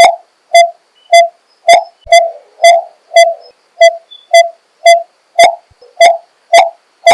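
Coppersmith barbet calling a steady, evenly spaced series of short 'tuk' notes, about two a second.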